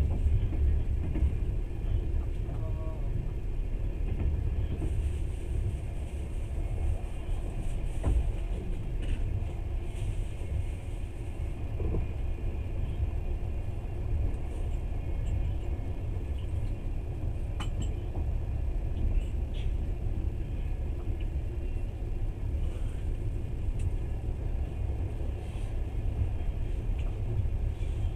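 Moving train heard from inside the carriage: a steady low rumble with a few faint clicks and rattles.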